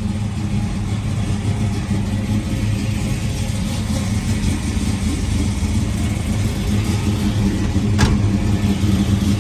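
Big-block Chevrolet V8 (a built 496) in a 1971 Chevelle idling steadily with a raspy exhaust note. A single sharp click sounds about eight seconds in.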